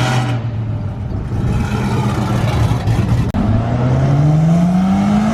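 A car engine holding a steady, loud note. After a brief break about three seconds in, a hard acceleration follows, the engine's pitch climbing steadily as it revs up through a gear.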